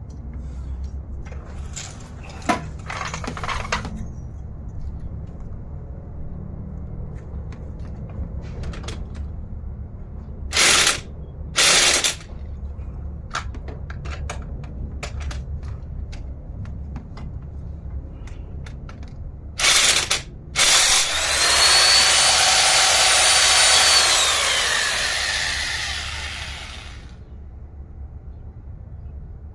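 Handheld power tool run in short bursts, then a longer run of several seconds with a high whine that drops in pitch as it winds down, over a steady low hum.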